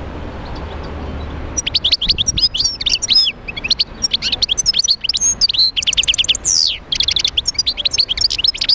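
European goldfinch singing: a fast, unbroken twitter of short high chirps and trills that starts about one and a half seconds in. One longer falling note comes about two-thirds of the way through.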